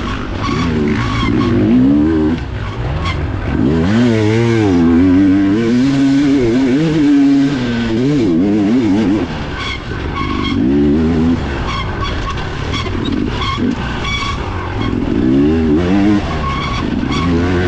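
Dirt bike engine heard on board, its revs rising and falling over and over as the throttle is worked.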